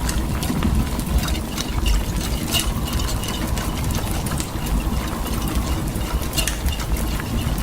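Blizzard wind rushing and buffeting the microphone in a steady, uneven low rumble, with scattered sharp ticks over it.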